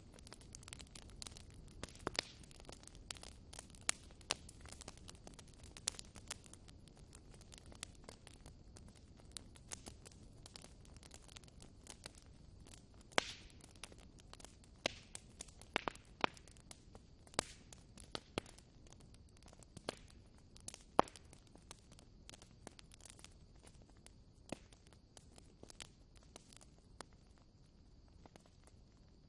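Wood fire burning in a fireplace: irregular sharp crackles and pops over a soft, steady rush of flame, with a few louder snaps.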